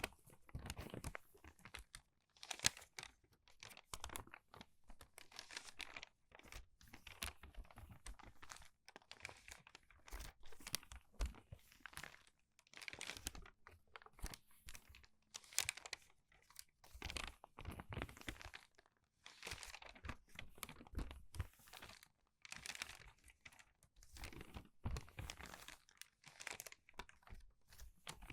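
Crinkled paper pages being turned quickly one after another, each turn a short crackling rustle, about one a second.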